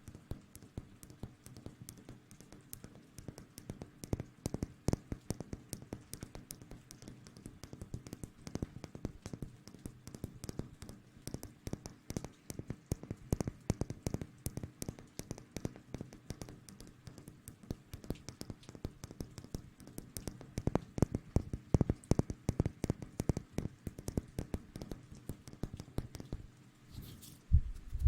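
Close-miked ASMR hand sounds: fingers scrubbing and rubbing right at the microphone, as in a hair wash, making a dense run of soft crackling taps that gets busier about three quarters of the way through.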